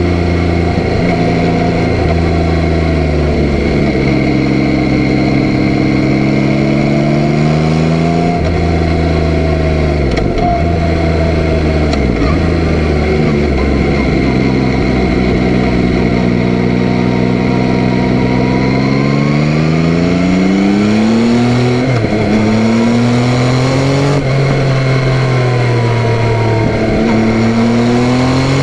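Yamaha Tracer 9's 890 cc inline three-cylinder engine under way, its pitch climbing as the bike accelerates and dropping sharply several times at gear changes or throttle-off, with a long steady climb in the second half.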